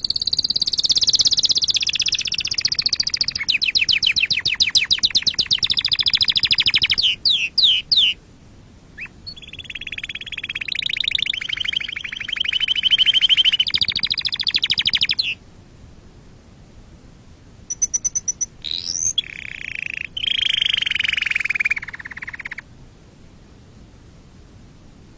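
Domestic canary singing: long, fast-trilled song phrases in three bouts separated by short pauses, falling silent a couple of seconds before the end.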